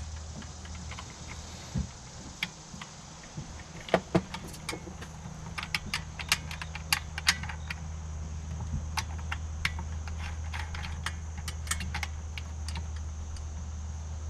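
Irregular small metallic clicks and clinks from hand tools and wire being worked at an electrical box, over a steady low hum.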